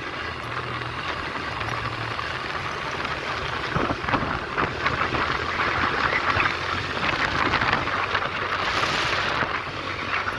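Wind buffeting the microphone on a moving 125cc motorcycle, over the low steady drone of its small engine. The rushing noise grows louder from about four seconds in.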